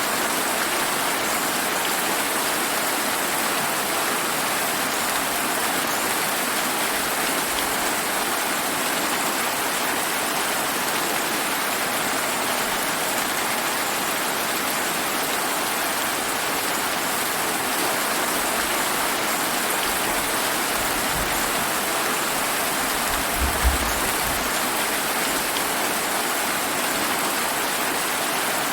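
Steady heavy rain pattering and hissing without a break. In the last third a low rumble of distant thunder builds, peaking in one brief louder boom about three-quarters of the way through.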